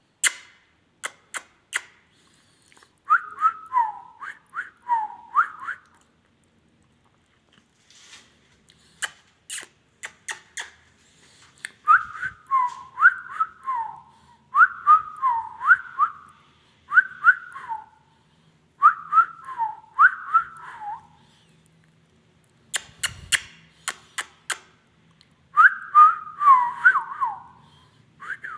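Indian ringneck parrot whistling the same short tune over and over, each phrase a run of quick rising and falling notes, with sharp clicks between the phrases.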